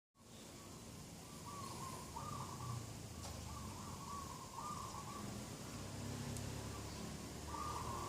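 Birds calling: a continuous run of wavering, warbling calls, with a louder call near the end, over a faint low rumble.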